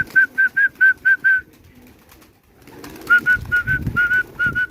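A bird calling in two runs of short, evenly spaced high chirps, about five a second: one run in the first second and a half, another from about three seconds in.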